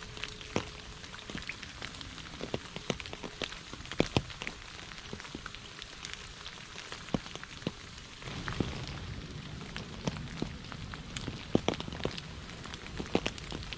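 Heavy rain falling: a steady hiss with many sharp individual drop impacts. The sound grows fuller and lower about eight seconds in.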